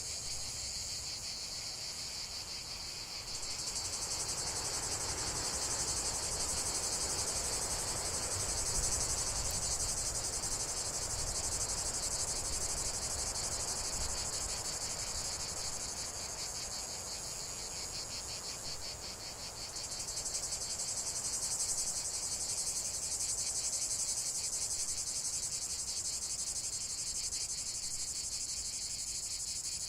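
Dense, high-pitched, rapidly pulsing chorus of insects chirring. It swells about three seconds in and again around twenty seconds in.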